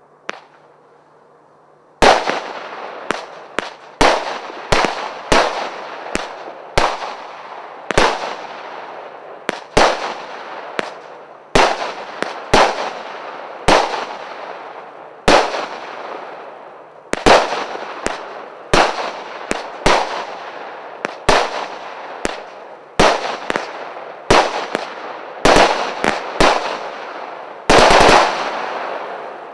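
Gelios CGF-431 multi-shot firework cake firing shot after shot: a sharp bang about once a second, each with a short echoing tail, starting about two seconds in. Near the end several shots go off in quick succession.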